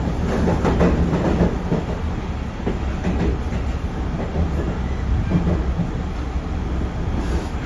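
Inside a JR Central 311 series electric multiple unit: a steady low rumble with irregular clicks, strongest in the first two seconds.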